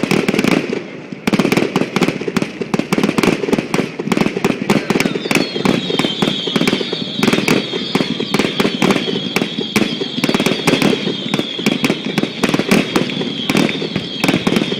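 Aerial fireworks display in a dense barrage, with many rapid overlapping bangs. From about five seconds in, a high, steady shrill tone runs through the bangs.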